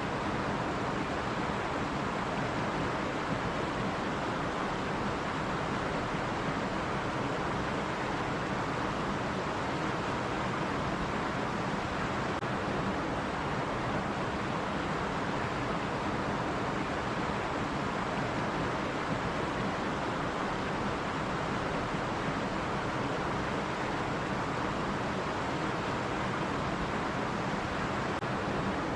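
Stream water running over rocks: a steady, even rushing with no breaks.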